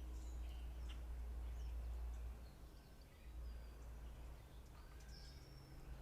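Outdoor background with a steady low rumble and scattered faint, short bird chirps.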